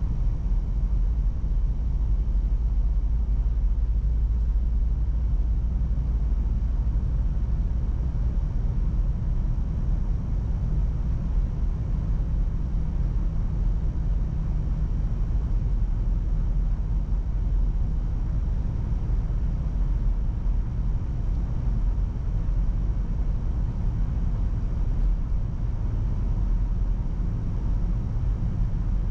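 Steady low rumble of a car driving along a road: engine and tyre noise at constant speed.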